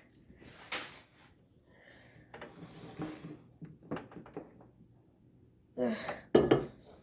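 Scattered knocks and clatters of a bowl of noodles being handled and set into a microwave oven, with a louder knock near the end.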